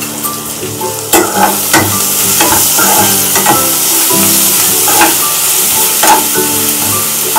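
Sliced onions, green chillies and curry leaves sizzling in hot oil in a nonstick kadai, stirred with a metal spatula that scrapes and knocks against the pan. The sizzle gets louder about a second in as the stirring starts, with repeated scrapes after it, while the onions soften in the oil.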